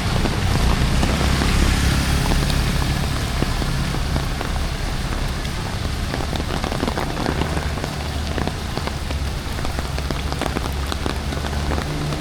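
Heavy rain falling steadily, a dense hiss of many drops spattering on hard surfaces, over a constant low rumble.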